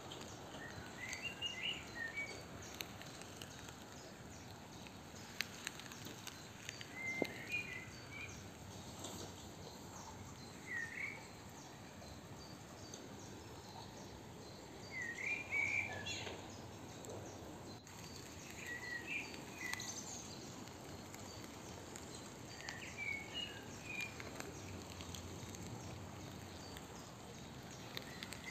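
Faint outdoor garden ambience: a songbird repeats a short chirping phrase every three to four seconds over a steady hiss, with a few sharp clicks.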